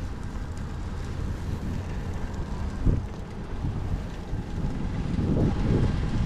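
Wind buffeting the microphone while cycling, a steady low rumble with stronger gusts about three seconds in and again near the end.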